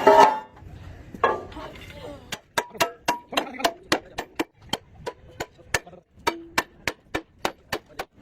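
A hammer striking metal over and over, about three blows a second, some blows leaving a short ringing note, in hand work on a truck body.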